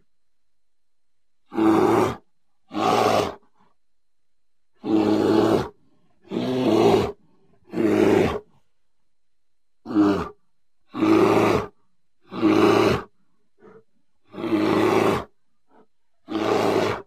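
A bear growling in a series of short, harsh roars, about ten in all, each under a second long and often coming in pairs, with near-silent gaps between them.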